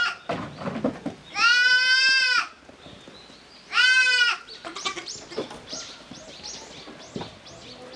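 A goat bleating: two loud, drawn-out bleats, the first about a second long and starting a second and a half in, the second shorter, about four seconds in. Faint short high chirps follow.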